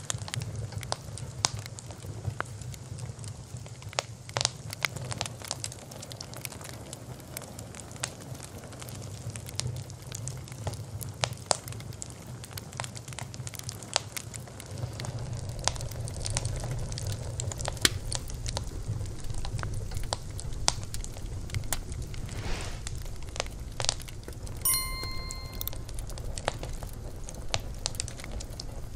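Wood fire crackling: irregular sharp pops and snaps over a steady low rumble of the flames, with a brief high whistling tone near the end.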